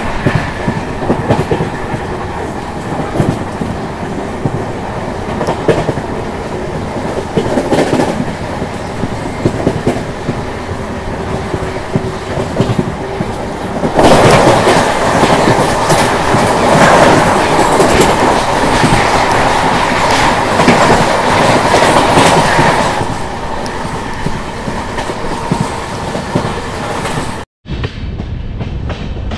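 Steady rush of a moving express train heard from an open coach door, with wheels clicking over the rail joints. About fourteen seconds in, an oncoming electric locomotive and its train pass close alongside on the next track, much louder for about nine seconds before the noise drops back. Near the end the sound cuts out for a moment and resumes quieter.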